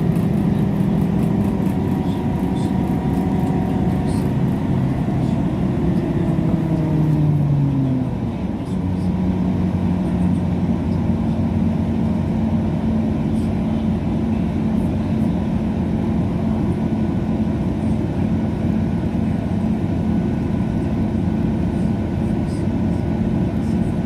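Train running, heard from on board: a steady rumble with an engine hum whose pitch falls away about five to eight seconds in, then settles into a steady lower drone.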